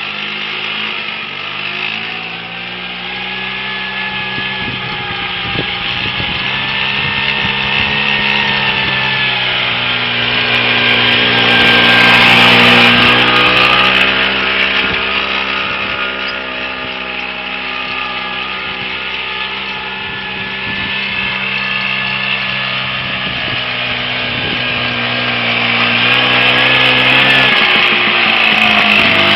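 WSK 125 single-cylinder two-stroke engine of a homemade tractor running steadily, its pitch rising and falling a little as it works, and getting louder about twelve seconds in and again near the end.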